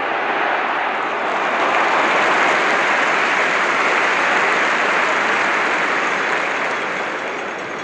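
Football stadium crowd applauding, a dense mass of clapping and crowd noise that swells to a peak a couple of seconds in and eases off toward the end.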